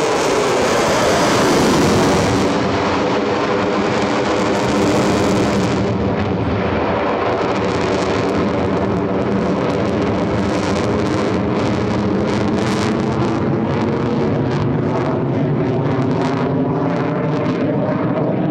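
Fighter jet passing low and loud, the pitch of its roar dropping in the first seconds as it goes by. The jet noise then goes on as a steady rumble with rapid crackling through the second half.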